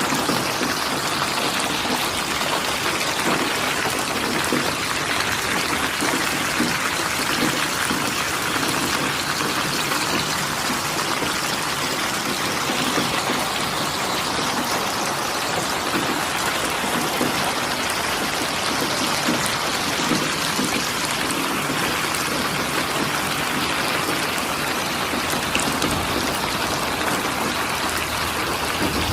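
Steady rain falling, with dense drops pattering on a surface and no change in strength.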